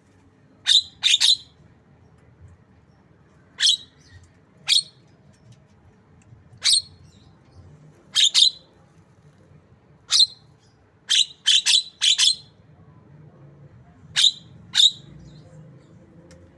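Javan myna (jalak kebo) giving short, sharp high calls in the manner of a white-rumped shama (murai batu). The calls come singly or in quick bursts of two to four, every second or two.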